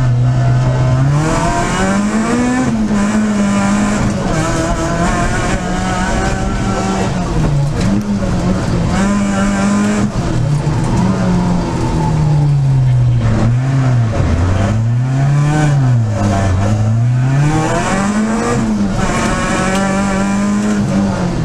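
Peugeot 306 Group A rally car's four-cylinder engine heard from inside the cabin, revving hard and repeatedly climbing and dropping in pitch as it accelerates, changes gear and lifts for corners.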